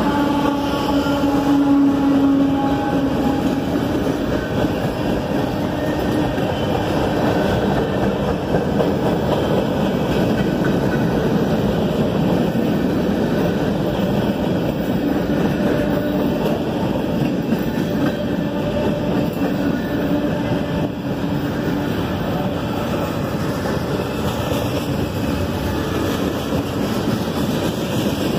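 Norfolk Southern freight train cars rolling past, a steady rumble of steel wheels on rail with some clickety-clack. A few steady tones in the first few seconds fade out.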